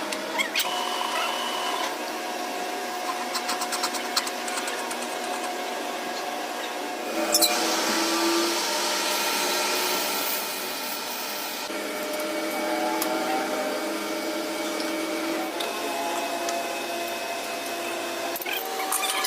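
A workshop machine or power tool running steadily with a whine of several fixed tones, changing abruptly about seven seconds in.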